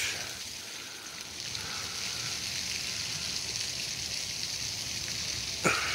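Steady outdoor hiss with no distinct events, the even rushing of water-like background noise.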